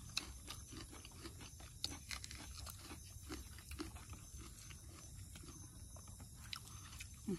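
Close-up eating sounds of rice and chicken gravy being eaten by hand: soft, irregular chewing and lip smacks with small clicks.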